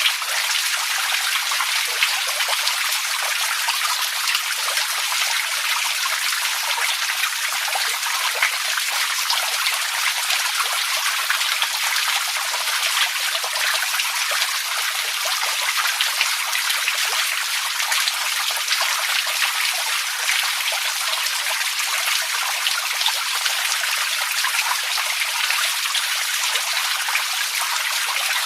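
Steady water sound: a continuous hiss of many small splashes and trickles, with no low rumble and no change in level.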